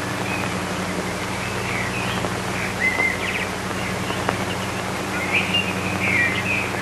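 Birds chirping in short, irregular calls over a steady low hum and hiss.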